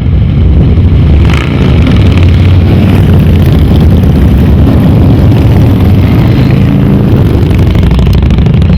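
Motorcycle engines running loud and steady, with a brief dip in level about a second in.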